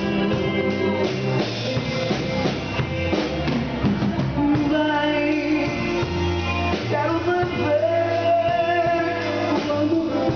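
A Portuguese-language band song: a voice sings one word near the start, then drums, bass and guitar carry on under a held melody line.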